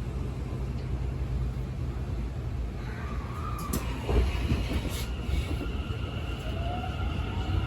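Tokyo Metro 10000-series subway train heard from inside the car: a steady low rumble, a few clicks about halfway through, and a faint rising motor whine near the end.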